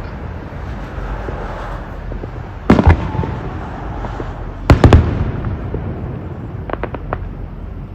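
Fireworks going off: two loud bangs about three seconds in, a quick cluster of three bangs about two seconds later, then a few faint crackles near the end, over steady background noise.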